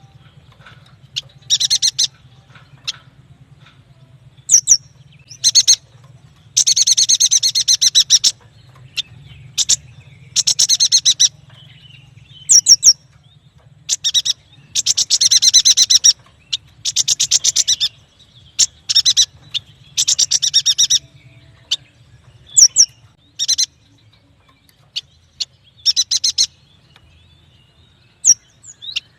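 Yuhina song: repeated high, rapid trilling bursts of about one to two seconds each, with short single chirps between them.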